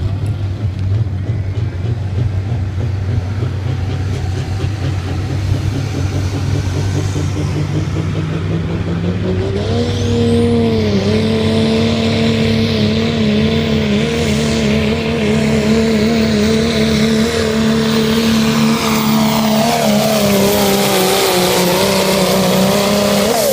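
Diesel 4x4 truck engine running low and steady, then about ten seconds in climbing to high revs and holding there at full power with a loud hiss, as in a truck pull. Near the end the revs fall away.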